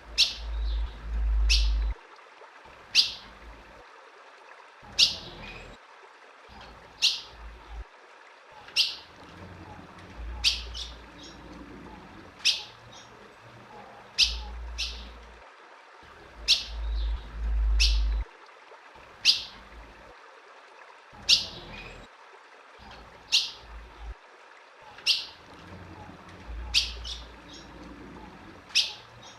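Female ultramarine grosbeak (azulão) giving single sharp chip calls, one about every one to two seconds, each a quick downward sweep. A low rumble comes and goes underneath.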